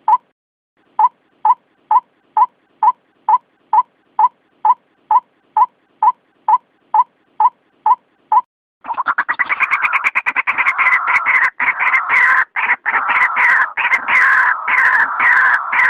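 White-breasted waterhen calling: a steady series of short single notes, about two a second, then about nine seconds in a loud, dense run of overlapping calls.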